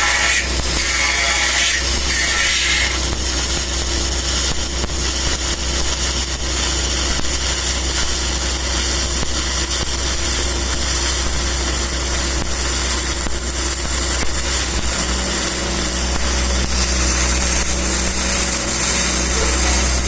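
Stick-welding arc crackling and hissing as an E7010 cellulosic electrode runs a downhill root pass, over a steady low hum that grows fuller about fifteen seconds in.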